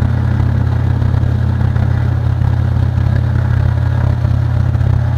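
The motor of a small metalworking machine, a mill or drill spindle, running steadily with an even low hum and no change in speed.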